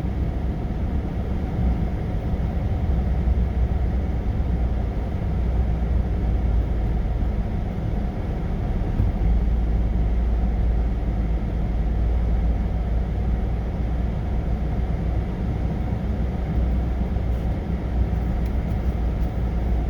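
Delivery truck's engine running steadily with road rumble, heard from inside the cab while driving.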